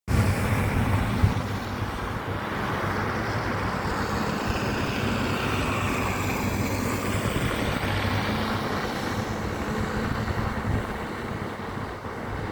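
Snowplow truck's engine running steadily, a low hum under a wide rush of road noise.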